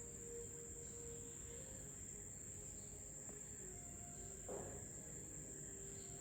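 Steady high-pitched drone of rainforest insects, with faint lower tones beneath it and a brief soft noise about four and a half seconds in.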